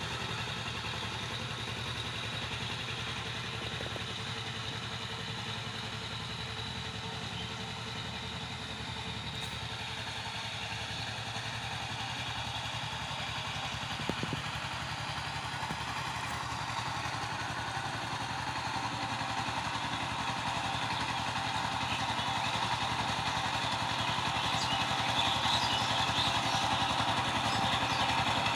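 Power tiller engine running steadily with an even, rapid beat, growing louder over the second half, with a single short knock about halfway through.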